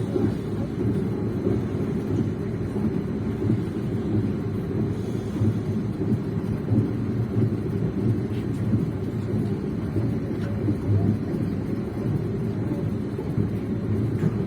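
Train running on the rails: a steady low rumble of wheels and carriage.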